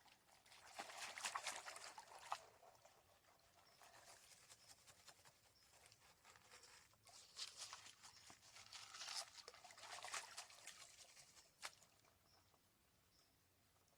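Faint water and gravel sloshing and grating in a gold pan as clay is worked and broken up, coming in a few separate swirls with small clicks of stones.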